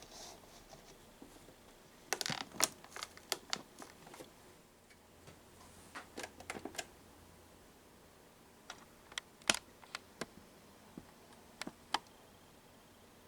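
Irregular sharp clicks and taps, coming in clusters, with no motor running.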